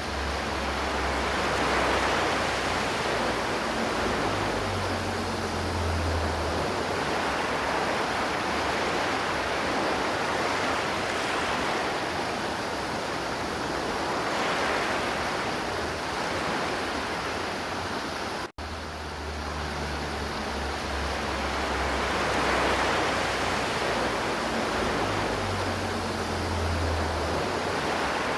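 River water flowing in a steady, even rush. The sound cuts out for an instant about two-thirds of the way through, then carries on unchanged.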